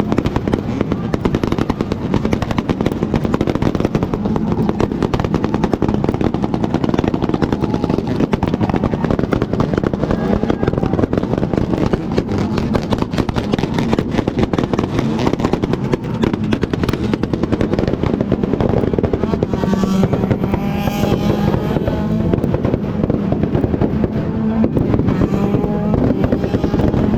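Motorcycle engine running steadily while riding, a dense rapid train of exhaust pulses with a steady low drone.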